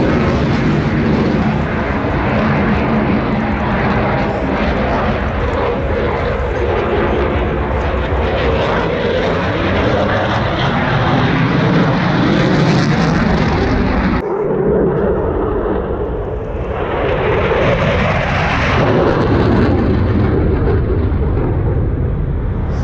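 Fast military jet's engines running at display power, a loud continuous jet noise as it flies past. About 14 seconds in the high-pitched part cuts out suddenly for a few seconds, then the noise swells back up.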